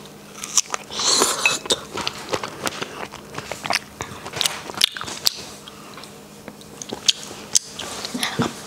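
Chewing and biting a chocolate-dipped strawberry, with many small mouth clicks and a louder bite about a second in.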